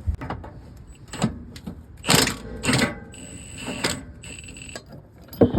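Metal hand tools clanking and scraping in a few separate knocks, as a 17 mm socket and ratchet are set to work on the cross-member bolts.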